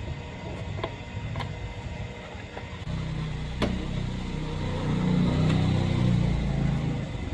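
A small engine or motor running unevenly, getting louder from about halfway through, with a few sharp clicks over it.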